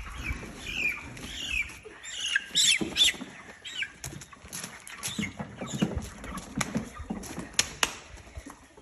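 Three-week-old Cornish Cross meat chickens peeping, a run of short high cheeps in the first few seconds, then scuffling and rustling with scattered sharp clicks and knocks as they move about.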